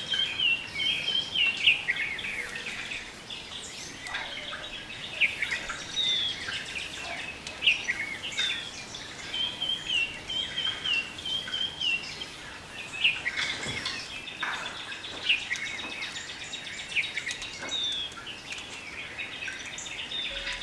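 Birds chirping busily: a steady stream of short, high chirps and slurred whistled notes, several overlapping.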